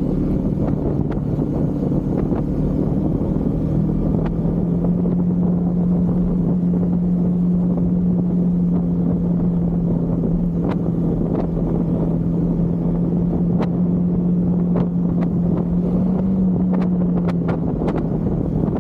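Husqvarna Svartpilen 401's single-cylinder engine running at steady revs on the move, with wind and road noise. The engine note climbs about four seconds in, holds steady, and drops back near the end. Scattered sharp ticks are heard in the second half.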